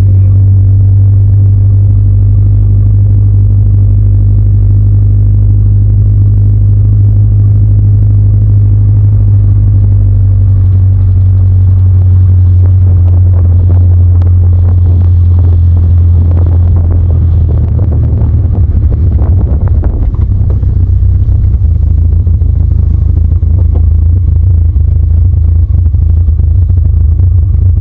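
Ford Ranger engine running with a nearly open exhaust of headers and down pipe only, a loud steady low rumble. About halfway through it turns rougher and more uneven.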